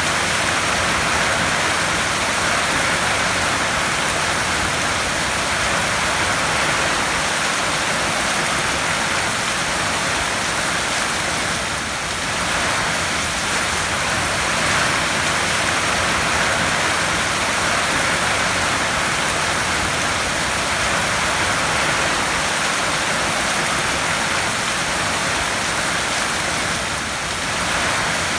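Heavy rain falling steadily on a tin roof, a dense loud hiss that swells and eases slightly now and then.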